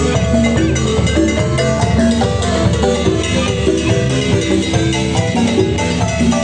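Marimba band playing a lively Latin dance tune: quick struck wooden-bar notes over bass and drums, with no singing.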